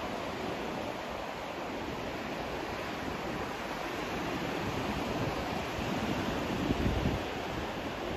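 White noise played for sleep: a steady, even rushing hiss with no distinct events, swelling slightly about seven seconds in.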